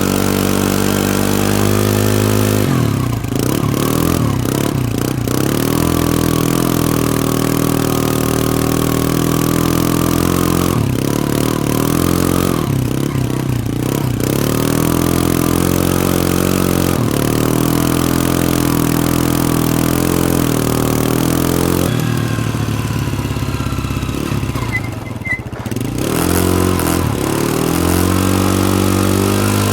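Can-Am ATV engine under hard throttle, revving up and easing off again and again, its pitch rising and falling with several brief drops where the throttle is released.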